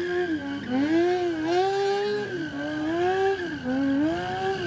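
A vehicle's engine revving up and down about once a second under a steady, high tyre squeal, as in a drift or burnout.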